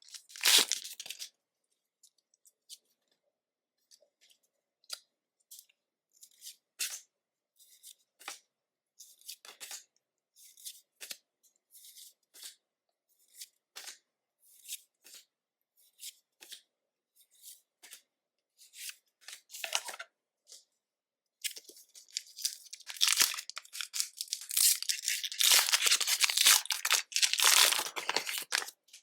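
Pokémon booster pack foil wrappers and cards being handled: a brief tail of foil-wrapper noise at the start, then scattered light taps and clicks as cards are flipped through, then a long stretch of foil tearing and crinkling as a pack is ripped open near the end.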